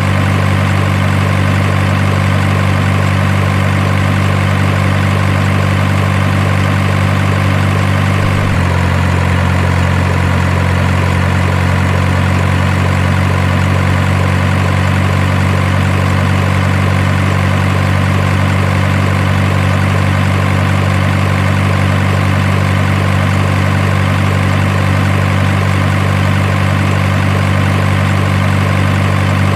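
Truck engine idling with a steady low hum, its tone shifting slightly about eight seconds in.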